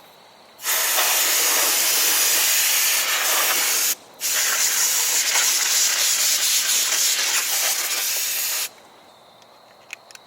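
Compressed air from an air hose blasting in two long bursts of hiss, about three and four and a half seconds each, with a short break between, blowing leaves and dirt out of the engine's intake area.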